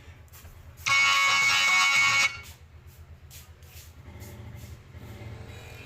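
A GTS-1551 MP3 speaker sounding a loud, steady electronic tone for about a second and a half, starting about a second in, over a low hum. The player is making sound again now that its faulty button has been washed.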